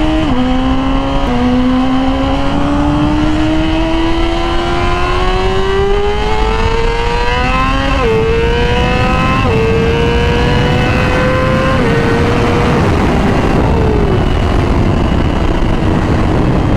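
Yamaha R6 inline-four sport bike with a Graves exhaust, accelerating through the gears. The engine note climbs slowly and drops sharply at each upshift, about a second in and again around eight, nine and a half and twelve seconds, then levels off and eases down. Wind rushes steadily over the helmet mic.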